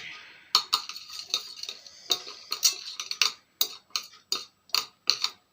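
Eating utensil clicking and scraping against a bowl while instant noodles are mixed, in a string of sharp clinks about two or three a second with a scratchy rustle under the first half.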